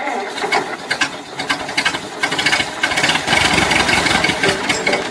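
An engine running with a rattling, knocking clatter, getting somewhat louder in the second half.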